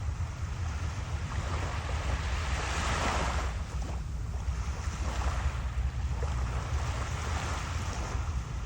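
Waves washing onto a shore in repeated swells, the biggest about three seconds in, with wind buffeting the microphone as a steady low rumble.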